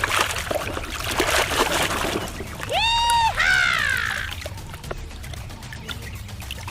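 Water pouring and splashing over toy vehicles being washed for about two seconds. About three seconds in comes a short high call that holds its pitch and then falls away.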